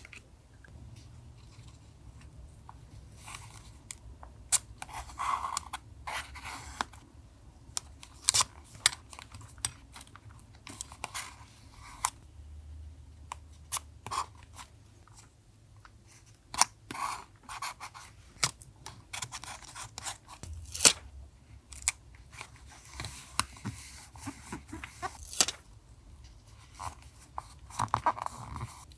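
Hands working paper for a collage journal: irregular rustling and crinkling of paper, with scattered sharp clicks and taps.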